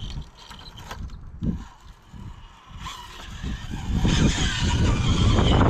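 Rock crawler's engine and drivetrain working over the course, with mechanical clatter. It gets much louder about four seconds in, and wind buffets the microphone.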